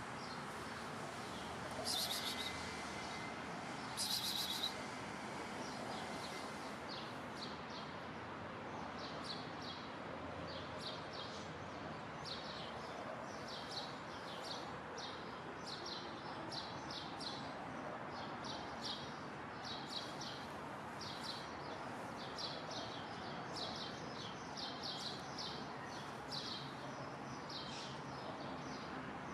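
Small birds chirping in short high calls, several a second, over a steady background hum. Two brief, louder high-pitched bursts about two and four seconds in.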